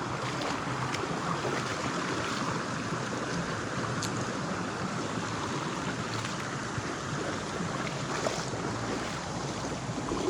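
Creek water running steadily over rocks, an even rushing sound, with a couple of faint clicks about four and eight seconds in.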